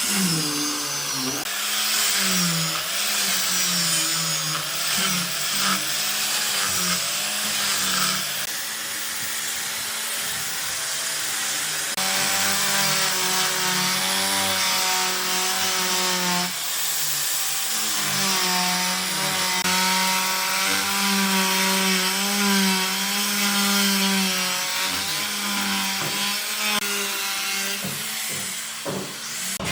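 A power tool cutting into wood, running steadily with its pitch wavering up and down as the load changes.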